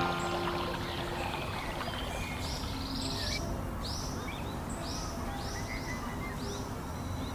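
A bird calling a run of short notes that each rise and fall, about two a second for a few seconds, over a steady outdoor background hiss.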